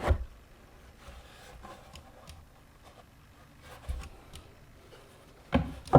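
Small cardboard box being opened by hand: faint scraping and rubbing as the lid and contents are handled, with a soft knock at the start, another about four seconds in, and a louder one just before the end.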